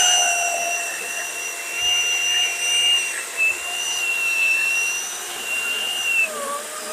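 Worx WG385E cordless electric chainsaw running free out of the cut, a steady whine with its chain spinning unloaded; the pitch dips and comes back up briefly near the end.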